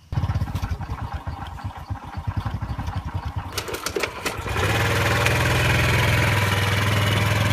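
Small motorbike engine starting up and running with an uneven, pulsing putter, then settling into a steady, louder drone about four and a half seconds in, with a few sharp clicks just before the change.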